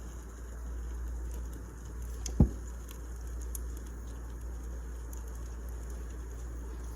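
Wood fire burning: scattered small crackles over a steady low rumble, with one louder, deeper thump about two and a half seconds in.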